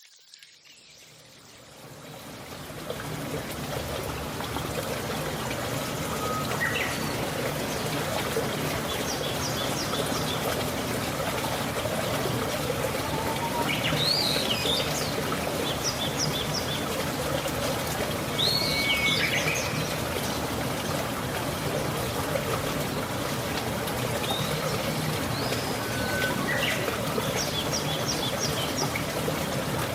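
Steady rush of flowing water, fading in over the first few seconds, with a bird chirping several times over it.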